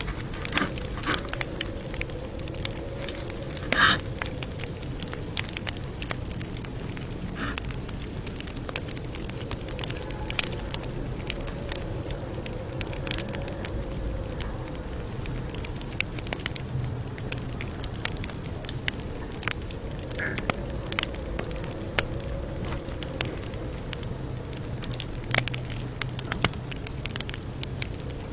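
Campfire crackling: irregular sharp pops and snaps over a steady hiss, with a faint wavering hum underneath.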